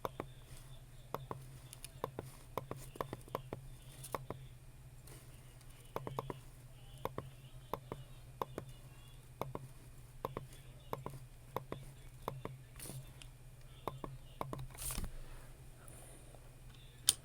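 Computer mouse clicking, single sharp clicks at an uneven pace of about one or two a second, over a low steady hum, with one brief rubbing sound about three-quarters of the way through.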